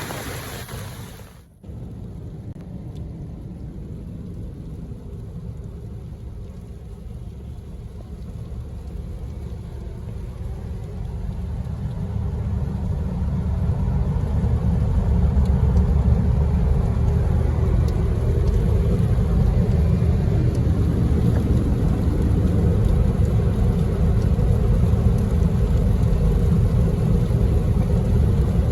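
A car driving: a steady low rumble of engine and road noise that grows louder about twelve seconds in, as if picking up speed, then holds steady.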